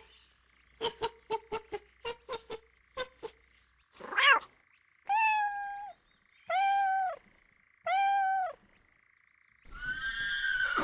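A frog croaking in a quick series of short calls, followed by three long, evenly pitched calls from another animal, with a louder call starting just before the end.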